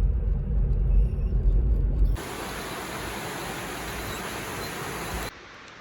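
A loud low rumble, then an abrupt cut to a steady, even rushing hiss, then an abrupt drop to a quieter hiss.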